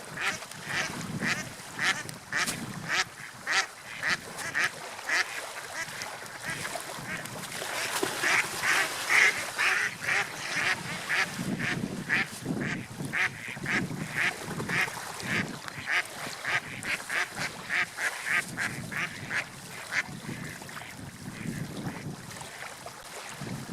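Ducks quacking over and over in a quick series of short calls, about two or three a second, over a steady background hiss.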